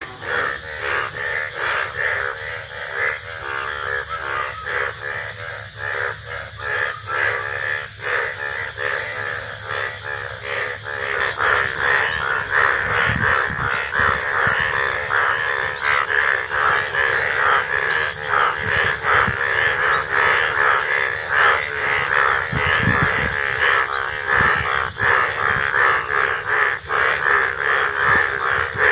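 A rainy-season chorus of Indian bullfrogs, many calling over one another in rapid, repeated croaks. The calling grows denser and louder about a third of the way in.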